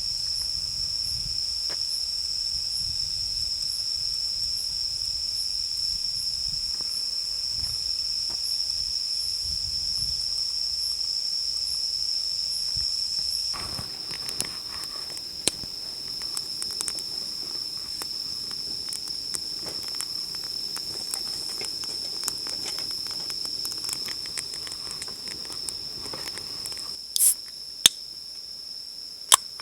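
Insects chirring in a steady, high-pitched chorus, with a low rumble under it in the first half and scattered small clicks and taps in the second half.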